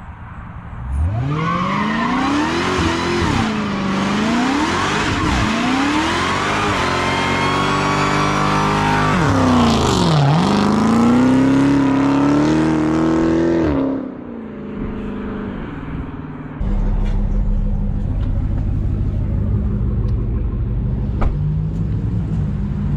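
Dodge Challenger Hellcat's supercharged Hemi V8 revved hard several times, its pitch rising and falling, then held at high revs before dropping away about fourteen seconds in. A steady low engine rumble follows.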